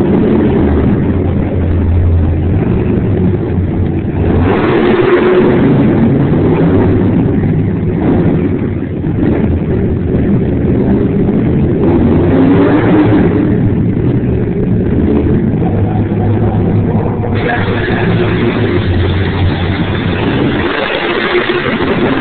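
Monster truck engine running loud, its revs swelling and dropping, with a harsher, noisier stretch in the last few seconds.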